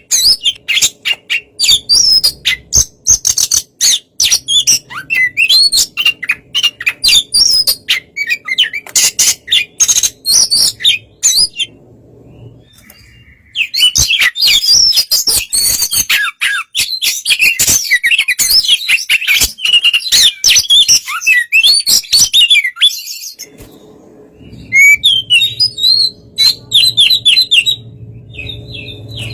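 Oriental magpie-robin (kacer) singing a loud, fast, varied song of chirps and whistles in long phrases, with two brief pauses.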